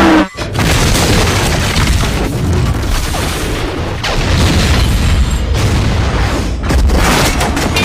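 Train derailment in a film's sound mix: heavy booms of explosions and crashing wreckage in a dense, continuous rumble, with brief lulls between the blasts.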